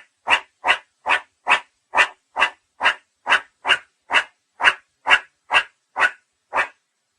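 Meerkat giving a long run of short, bark-like calls, about two a second and evenly spaced.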